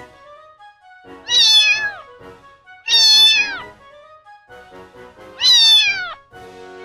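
Kitten meowing three times, high-pitched calls that each drop in pitch at the end, over faint background music.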